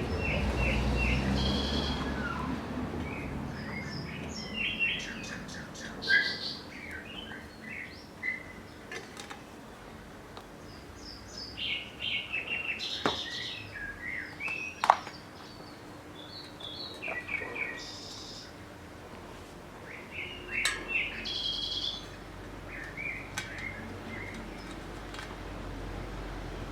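Small birds chirping and twittering in repeated short, high phrases, with a low rumble fading out over the first few seconds and a couple of sharp clicks around the middle.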